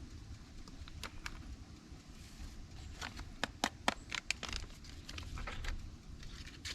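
Packet of brown gravy mix being handled and torn open, a run of crinkles and sharp ticks that comes mostly in the second half, over a low steady background rumble.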